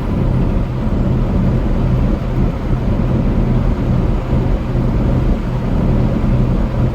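Steady road and engine rumble inside a truck's cab while driving at highway speed.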